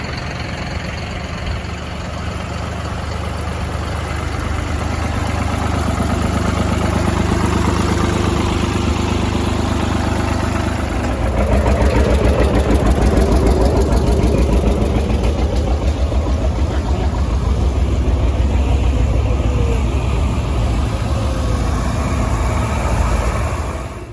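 Tractor engine running, a low steady drone with an even beat of firing pulses, growing louder about eleven seconds in and cutting off abruptly at the end.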